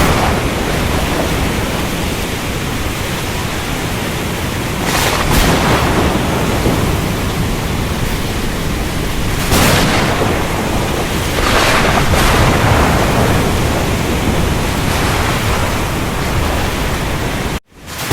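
Thunderstorm over the ocean: a steady roar of rain and surf, broken by several sudden louder crashes. The sound cuts out for a moment near the end.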